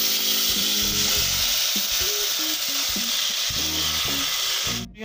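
Chopped tomatoes hitting hot cooking oil and cumin seeds in a metal pot, sizzling loudly: a steady hiss that starts the instant they go in and cuts off abruptly near the end.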